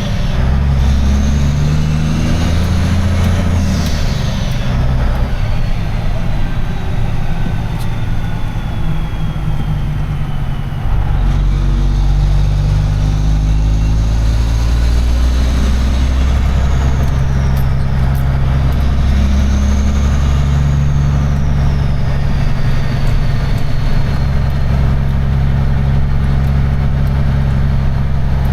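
Semi truck's diesel engine running while driving, its low note shifting with speed and changing abruptly about eleven seconds in. A high whistle rises and falls twice over the engine.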